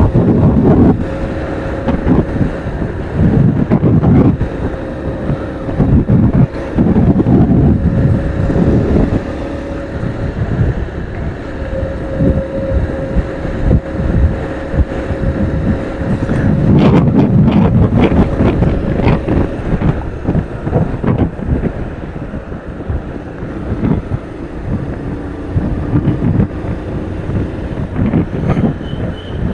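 Wind buffeting the microphone in uneven gusts while riding a motorcycle, over the drone of vehicle engines. A steady hum runs under it for roughly the first half.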